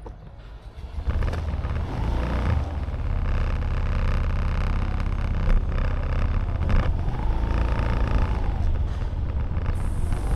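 Motorbike engine running with a steady low rumble, which jumps in loudness about a second in.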